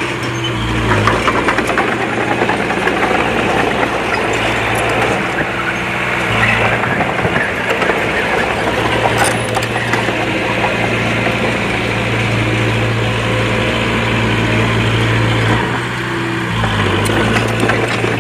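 Komatsu D20P small crawler bulldozer's diesel engine running and working, its tone shifting a few times, over a steady clatter from the machine.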